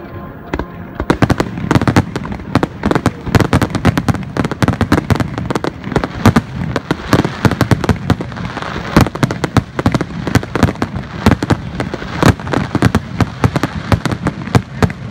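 Fireworks display: a rapid barrage of aerial shells bursting, many sharp bangs a second, a little sparser in the first second.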